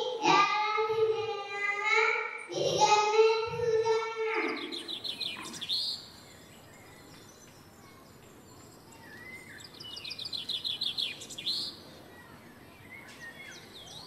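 Bird calls: rapid, high chirping trills in two spells of a second or two each, the first about four and a half seconds in and the second near the middle, with a hushed hall between. Before them, children's sing-song voices over microphones.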